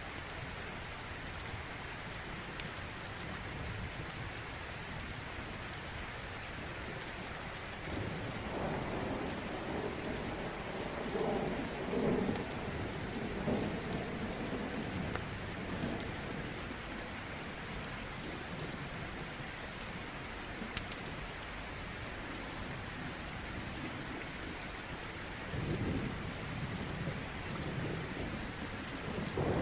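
Steady rain with rolling thunder: a long rumble starts about eight seconds in and lasts several seconds, and a shorter one comes near the end.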